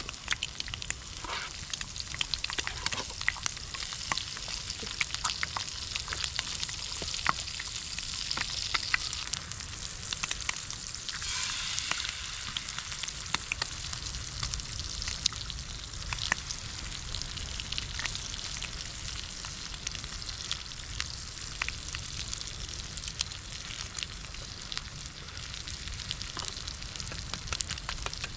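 Food frying over a campfire: a steady sizzle with frequent sharp crackles and pops.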